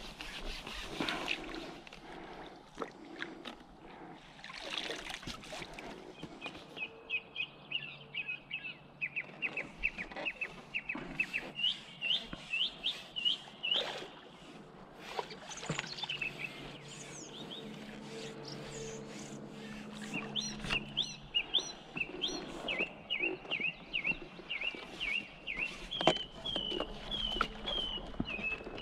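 A small bird calling in a long run of quick, short chirps, several a second, starting a few seconds in. Scattered light clicks and knocks come through underneath.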